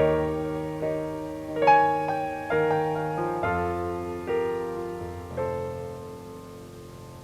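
Piano playing the final bars of a slow ballad: about six chords, struck roughly a second apart and left to ring, dying away about six seconds in.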